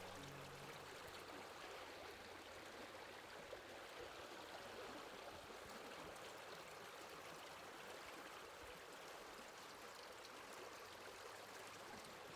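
Faint, steady rush of flowing water, like a stream, with no distinct beats or tones.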